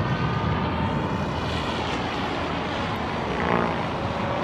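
Radio-controlled model aircraft's motor whining at a distance, its pitch rising and falling as it flies.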